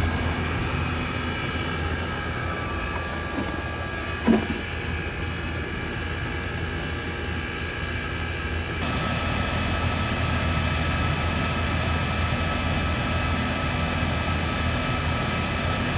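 R22 Trane XE1000 heat pump outdoor unit running steadily in cooling, a constant machine hum, with one brief sharp sound about four seconds in.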